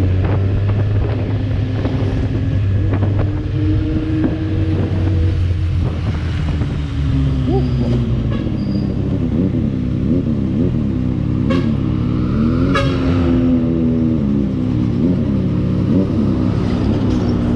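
Kawasaki Z1000R's inline-four engine on its stock exhaust, running while riding. It is fairly steady at first; from about halfway the pitch rises and falls again and again as the throttle is worked. There are a couple of short sharp sounds near the middle.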